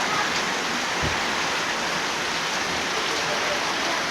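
Steady rain falling, an even hiss throughout, with one soft low thud about a second in.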